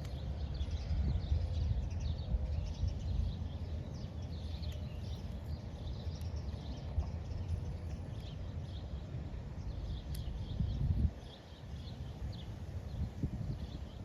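Low rumble of wind on the microphone, with small birds chirping over it again and again. The rumble drops away suddenly about eleven seconds in.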